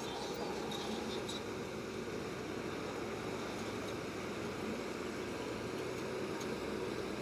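Bulldozer engine running steadily, an even mechanical drone with a few faint clicks about a second in.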